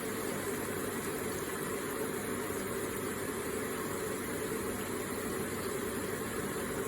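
Electric water feature running: water trickling and splashing steadily, without change.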